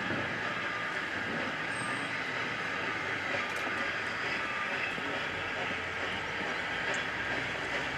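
Train rolling past on the line, a steady, even noise of wheels on rail with no clear beat.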